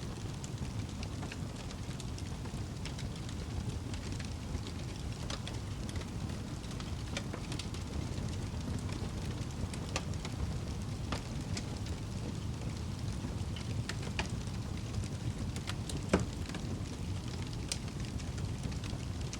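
Wood fire burning in a fireplace: a steady low rumble of flames with scattered crackles and pops, one pop much louder about sixteen seconds in.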